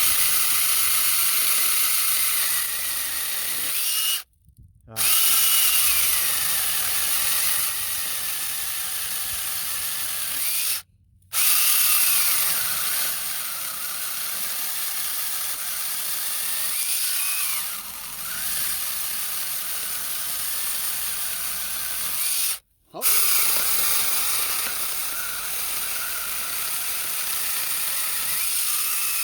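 Small cordless battery chainsaw running, its motor pitch dipping and recovering as it is worked, likely cutting through branches. The sound drops out briefly three times.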